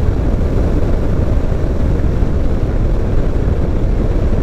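Motorcycle cruising at road speed: a steady low rumble of engine and wind noise, unchanging throughout.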